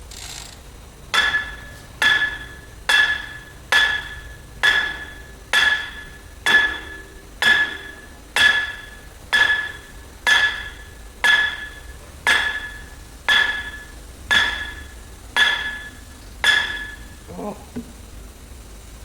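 Steady hammer blows on metal, a little under one a second, each with a short metallic ring; about seventeen strikes, then a few light knocks after they stop.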